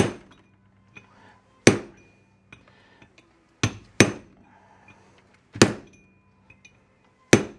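Hammer blows on a steel drift, driving the old kingpin bushing out of a Datsun truck spindle. Six sharp metallic strikes come at uneven gaps of about half a second to two seconds, each ringing briefly, with a few light taps between them.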